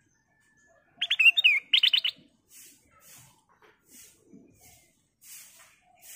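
Black-crested bulbul (kutilang emas) singing: two quick, loud bursts of chirping, warbling notes about a second in, the second a rapid run of repeated notes. Faint soft ticks follow for the rest of the time.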